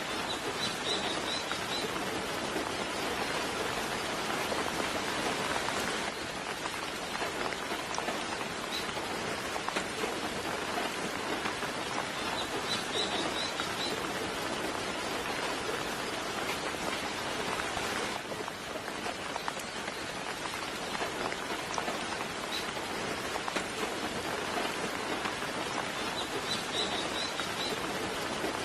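Steady, gentle rain falling. Three times, a bird gives a short burst of high chirps, with a few fainter single chirps between.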